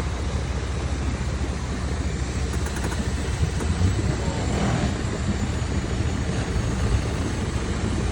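Toyota Yaris engine running with a steady low rumble.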